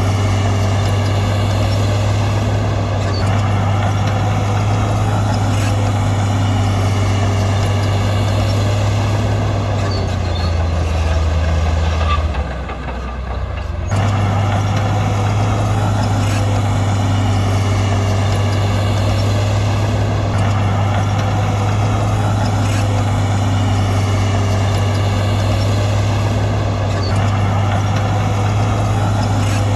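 Heavy diesel engine of earthmoving machinery running steadily. About ten seconds in its pitch drops and it quietens for a couple of seconds, then comes back abruptly at full strength.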